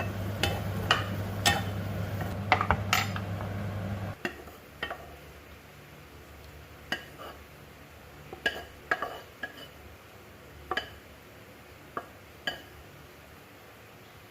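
Kitchen utensils clinking and knocking against dishes and a pot during cooking, in scattered sharp taps. A steady low hum underneath cuts off suddenly about four seconds in.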